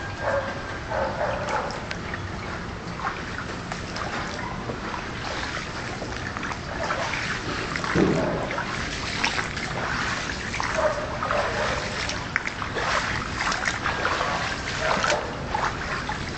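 Irregular splashing and sloshing of water as an animal moves through floodwater, with a louder low sound about eight seconds in.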